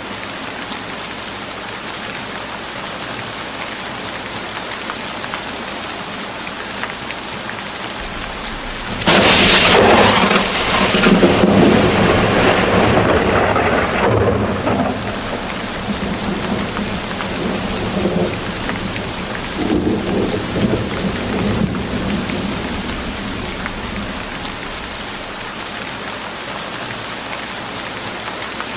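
Steady rain falling. About nine seconds in, a sudden clap of thunder breaks in and rumbles on for over ten seconds, swelling once more before fading back into the rain.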